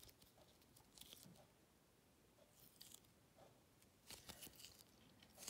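Faint, irregular crackling and tearing sounds of a sticky, stretchy squishy toy being squeezed and pulled apart in the hands, with a cluster of crackles about four seconds in.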